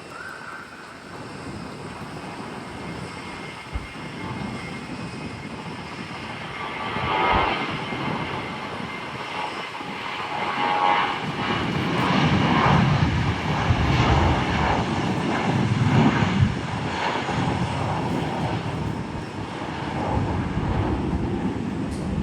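Airliner's engines growing steadily louder to a loud rumble as the plane passes close by, then easing off slightly, with a faint whine at the start.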